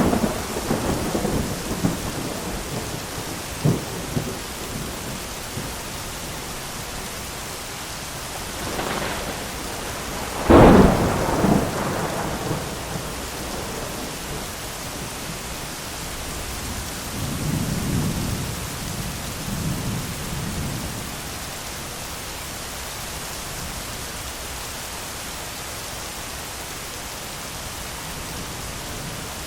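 Steady heavy rain with repeated thunder: a crack right at the start that rolls off, a sharp loud thunderclap about ten seconds in that rumbles for a couple of seconds, and a softer rolling rumble a little later.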